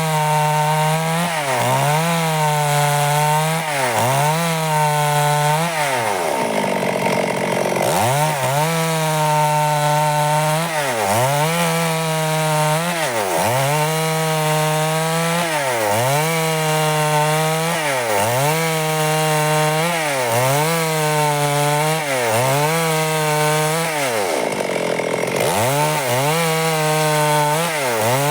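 Stihl two-stroke chainsaw cutting wood under load. The engine pitch dips and recovers about once a second as the chain bites, and twice it bogs down deeper for a moment before picking back up.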